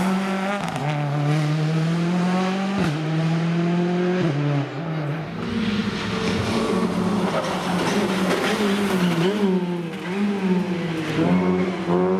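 A rally car engine running hard on a special stage. Its pitch climbs and drops back sharply at gear changes, twice in the first few seconds, then rises and falls on and off the throttle before climbing again near the end.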